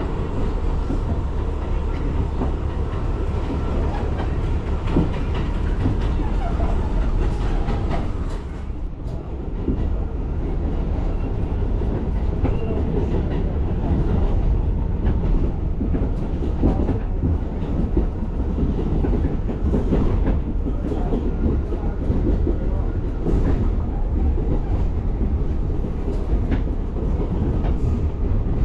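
New York City subway train running, a steady rumble of wheels on the rails with irregular clacks, heard from inside the car. The sound dips briefly about nine seconds in.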